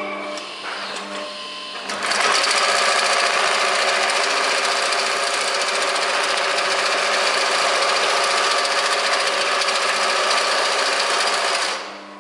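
HIGHTEX 72600 heavy-duty double-feed (walking-foot) big-bag sewing machine stitching. It runs quietly and unevenly for about two seconds, then sews steadily at full speed for about ten seconds, and stops just before the end.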